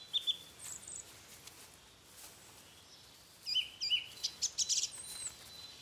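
Small birds calling: scattered short high chirps, busiest from about three and a half seconds in, with one rising-then-falling whistle near the end, over a quiet background.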